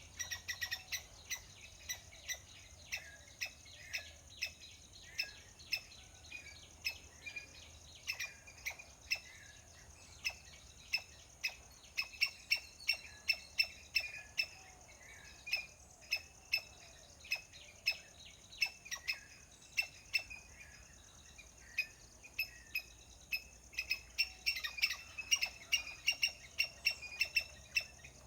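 Short, sharp chirping calls repeated in quick runs, often several a second, with a busier stretch in the middle and again near the end.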